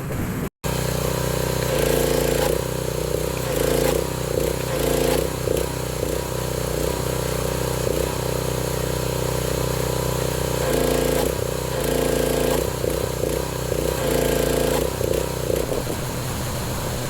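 Husqvarna pressure washer running while it sprays soap through a foam cannon, with a hiss of spray over the machine's steady note. That note wavers and shifts up and down repeatedly as the load changes.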